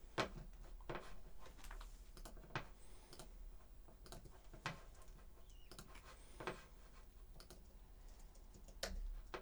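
Scattered computer keyboard and mouse clicks, irregular and faint, as a recording track is edited.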